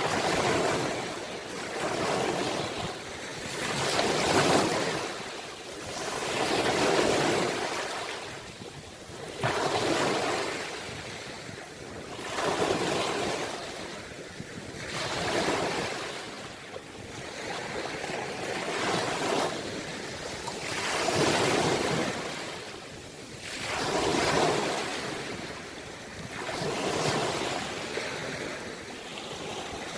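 Ocean waves breaking and washing on the shore, swelling and fading in a steady rhythm of about one surge every two and a half to three seconds.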